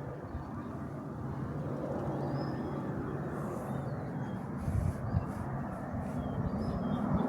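Steady low rumble of a distant military training aircraft's engine, with a few faint bird chirps over it.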